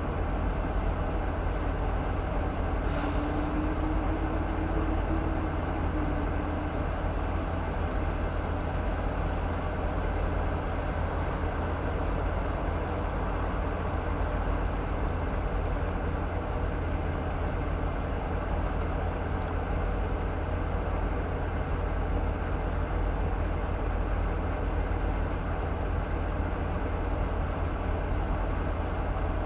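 Vehicle engine idling steadily, a constant low rumble.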